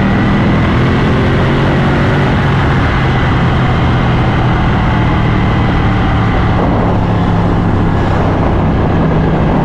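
Ducati motorcycle engine running steadily under way, with a constant rush of wind and road noise over it.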